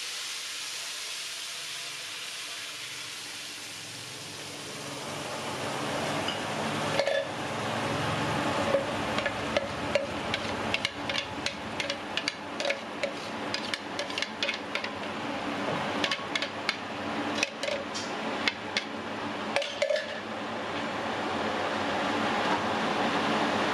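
Blended chili, tomato and shallot spice paste sizzling as it hits hot oil in a metal wok, the hiss easing over the first few seconds. From about seven seconds in, a spatula clicks and scrapes against the wok as the paste is stirred, over continued sizzling.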